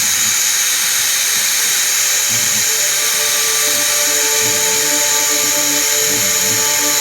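MITS ElevenLab desktop PCB mill running: its high-speed spindle gives a steady high whine and hiss, while lower motor tones shift in pitch from moment to moment as the machine moves.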